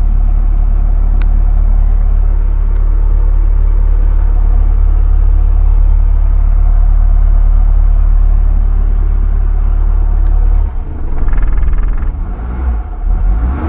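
1991 Suzuki Carry pickup's engine idling, heard from inside the cab as a loud, steady low rumble. The rumble turns uneven about eleven seconds in.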